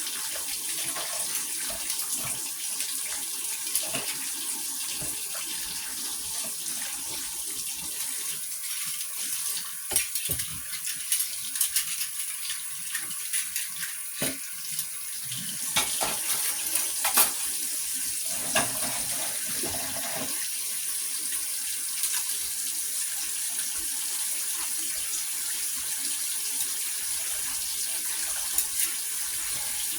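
Water running steadily, with scattered knocks and clatter in the middle stretch.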